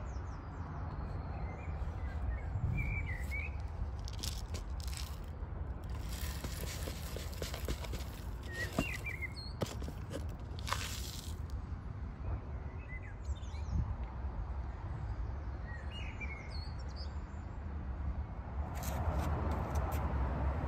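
Small garden birds chirping now and then, short calls a few seconds apart, over a steady low rumble of outdoor background noise.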